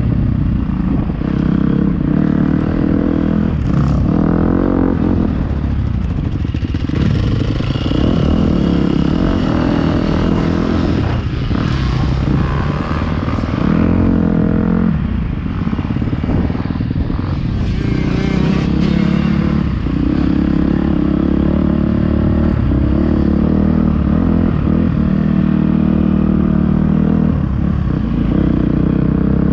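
Motocross bike engine heard up close while riding a lap: loud and continuous, the pitch repeatedly climbing as the throttle opens and dropping as it closes.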